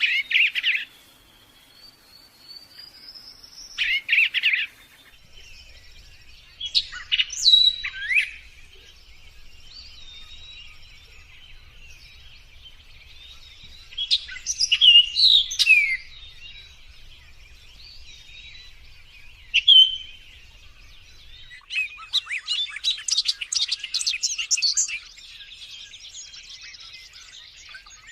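Wild birds singing in the forest: short phrases of whistles and chirps come every few seconds. Near the end there is a fast, dense run of chirps.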